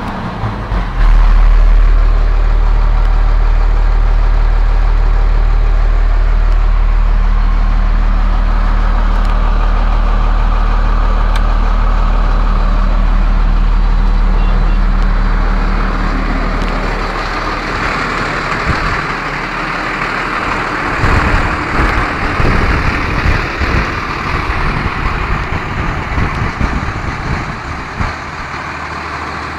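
The 5.9L Cummins diesel of a 1998 Ford F800 dump truck running with a loud, steady low drone. After about 17 seconds the drone weakens and a hiss with uneven rumbling takes over.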